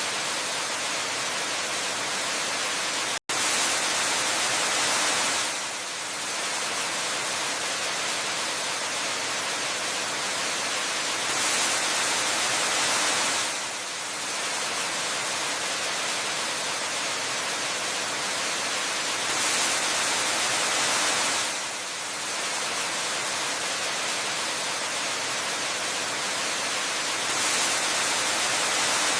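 Waterfall rushing as a steady, even hiss of falling water, swelling slightly about every eight seconds. It cuts out for an instant about three seconds in.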